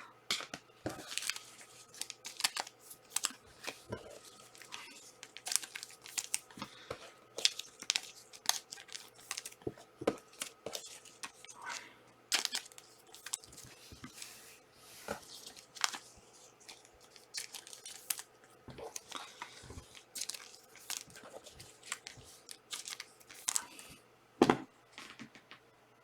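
Packs of trading cards being torn open and the cards handled: irregular tearing and crinkling of pack wrappers with many small clicks and rustles, and one sharper tap about twenty-four seconds in.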